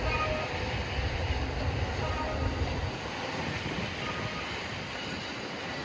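Freight train running past: a low rumble of the wagons that drops away about three seconds in, leaving a steady hiss.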